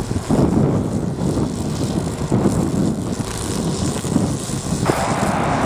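Turbofan engines of a Boeing C-17A Globemaster III running at taxi power, heard through heavy, gusting wind rumble on the microphone. Near the end a steadier mid-range hiss comes in on top.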